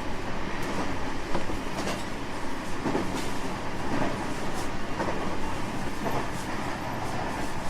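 Interior running noise of a JR West 225 series 5000-subseries electric train in motion: a steady rumble with scattered sharp clicks from the wheels passing over rail joints.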